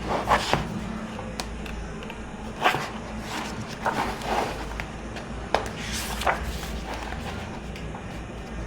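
Paper and book pages rustling and being turned by hand, a handful of short rustles and soft knocks spread across several seconds over a steady low hum.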